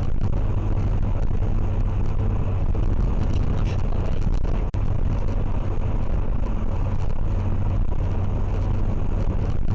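Steady low vehicle rumble of engine and road noise picked up by a dashcam, with a brief dropout about halfway through.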